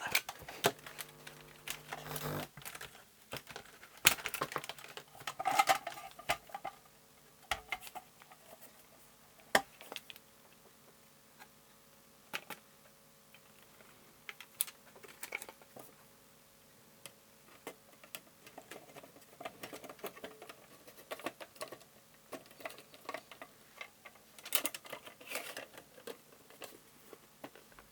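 Irregular small clicks, taps and knocks of screws, a screwdriver and metal casing parts being handled as an electronic audio unit is reassembled, some louder knocks in the first six seconds and again near the end.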